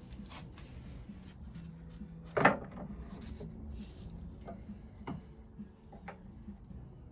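Metal knocks and light scraping as the camshaft of a 1921 Lister TM stationary engine is pushed and worked out of its housing, with one sharp knock about two and a half seconds in and a couple of lighter clicks later.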